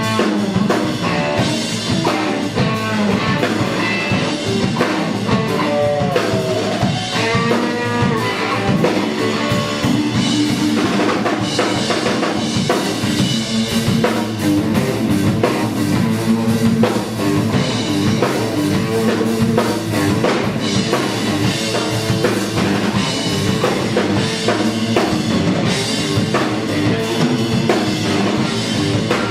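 Live rock band playing a riff-rock number: electric guitar over a drum kit, without singing.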